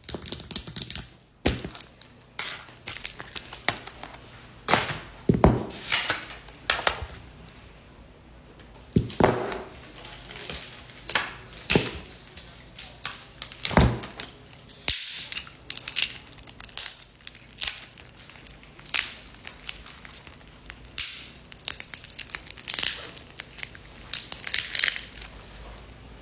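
Irregular clicks, taps and crinkling scrapes of tools and small parts being handled during smartphone repair work.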